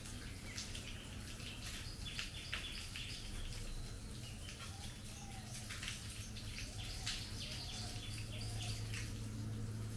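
Monsoon rain falling on trees: a steady hiss with many scattered drips. Birds chirp now and then through it.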